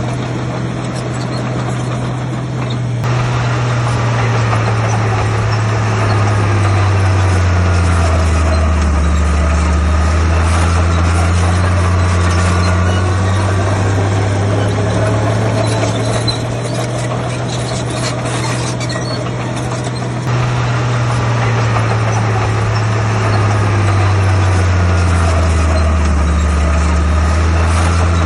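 Heavy construction machine's diesel engine running under load, its pitch slowly sagging and recovering and twice jumping back up abruptly. A faint wavering squeal sits above it.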